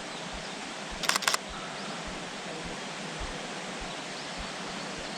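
A camera shutter firing a quick burst of several clicks about a second in, over a steady even hiss.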